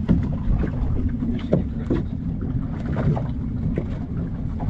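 Boat engine running with a steady low rumble, wind buffeting the microphone, and scattered short knocks and splashes of water against the hull.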